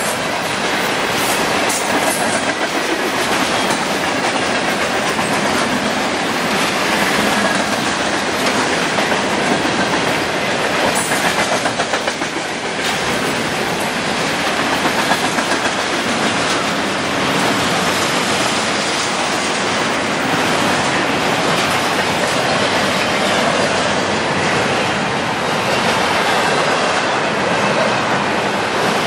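Freight train cars rolling steadily past at speed, refrigerated boxcars and then double-stack container cars, with their steel wheels clacking rhythmically over the rail joints.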